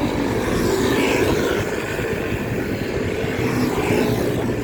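Steady road noise while cycling along a busy highway: wind rumbling on the microphone, with the hum of motor traffic running alongside.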